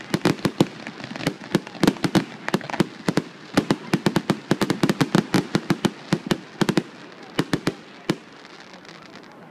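Fireworks going off in a rapid, irregular volley of sharp bangs and cracks, several a second, thinning out and stopping about eight seconds in.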